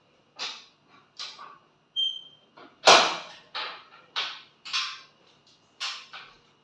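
A caged orange-headed thrush making a run of sharp, harsh, noisy bursts, about nine in all and loudest about three seconds in, with a brief high whistle about two seconds in.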